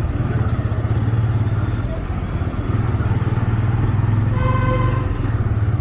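Motorcycle engine running at a steady throttle while riding, a low pulsing rumble with road noise. A vehicle horn honks once briefly about four seconds in.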